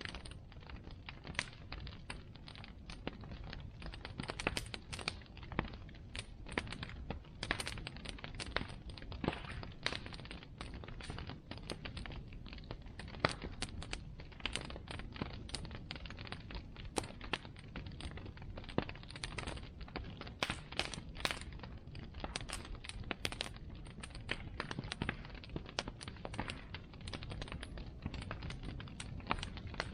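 Bonfire crackling: irregular sharp pops and snaps, several a second, over a low steady rumble.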